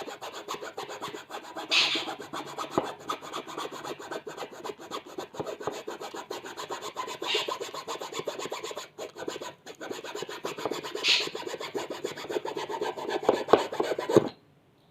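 Metal-cutting hand saw sawing through a soft balsa wood block, a continuous rasping of back-and-forth strokes that stops abruptly shortly before the end.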